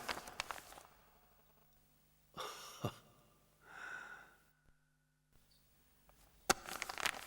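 Quiet room sounds: a few scattered knocks and clicks at the start and again near the end, with a soft breathy sound in between.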